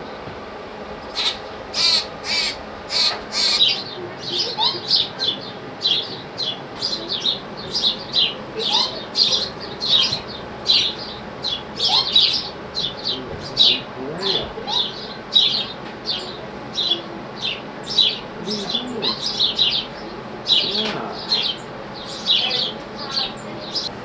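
Baby birds chirping: many short, high calls in quick succession, a few a second, with no break.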